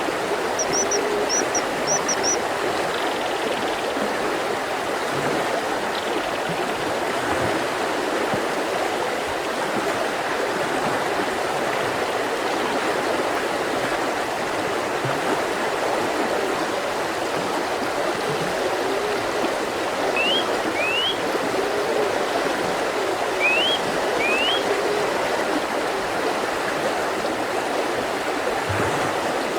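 Mountain river flowing steadily. Birds call over it: a few quick high chirps in the first couple of seconds, and short rising calls, mostly in pairs, about two-thirds through and again near the end.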